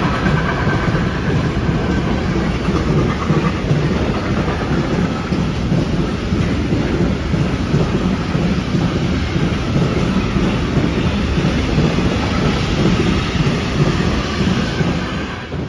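Container freight train rolling past close by: a loud, steady rumble and clatter of the wagons' wheels on the rails, fading near the end as the last wagon passes.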